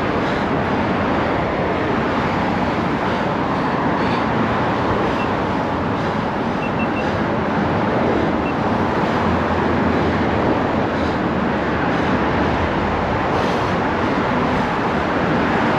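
Steady rush of wind on a chest-mounted camera's microphone while riding a bicycle, with tyre noise and road traffic alongside.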